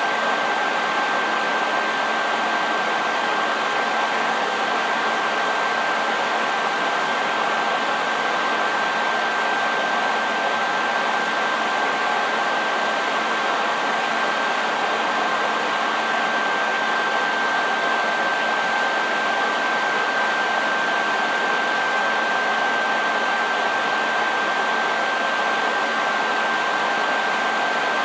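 Hair dryer running steadily: an even rush of blown air with a constant high whine from its motor and fan.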